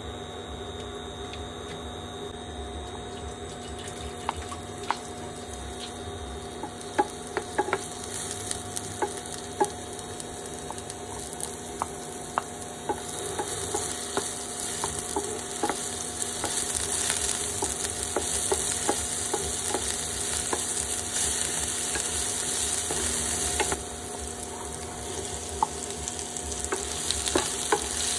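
Chopped garlic and chilli sizzling in hot oil in a nonstick pan, with a wooden spatula stirring and clicking against the pan. The sizzle starts a few seconds in and grows louder about halfway through, over a steady low hum.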